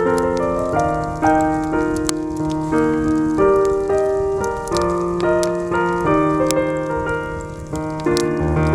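Soft jazz piano background music, with the pops and crackles of a wood campfire scattered under it.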